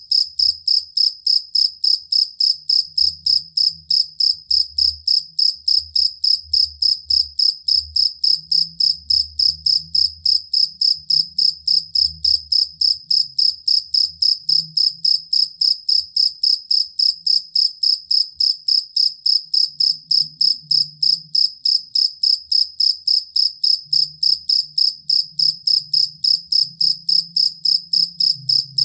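Field cricket (jangkrik kalung) chirping steadily, about three high-pitched chirps a second in an even rhythm.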